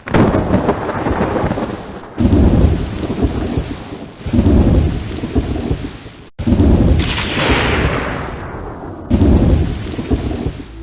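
Thunderstorm: steady heavy rain with rolling thunder, loud rumbles swelling up every two seconds or so. The sound drops out for an instant a little past six seconds in.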